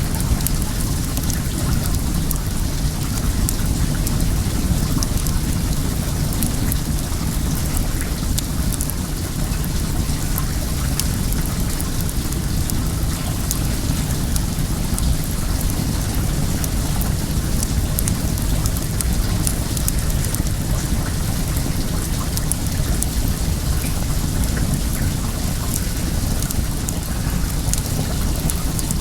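Well water running and splashing steadily, with a low rumble, while a wood fire gives off many small, sharp crackles.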